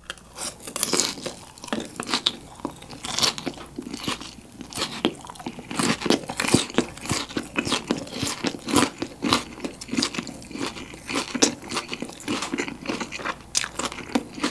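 Close-miked chewing of crispy boneless fried chicken with raw shredded green onion: dense, crisp crunches, many to the second, with no break.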